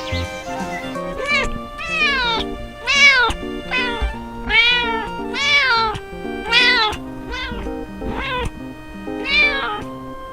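Domestic cat meowing repeatedly, about eight rising-and-falling meows roughly a second apart, over background music.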